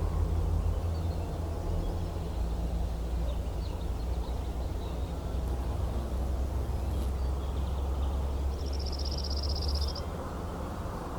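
Outdoor ambience: a steady low rumble, with faint scattered bird chirps and a short, high, buzzing trill about nine seconds in.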